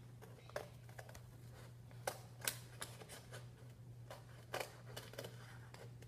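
Scissors snipping through paper in several separate, irregular cuts, over a faint steady low hum.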